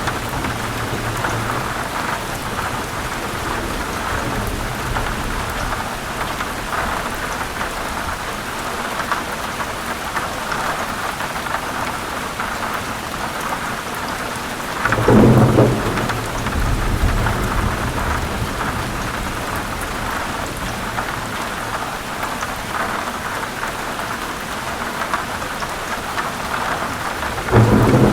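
Heavy rain with thunder. One loud thunderclap comes about halfway through and rumbles on for a few seconds, and another thunderclap starts near the end.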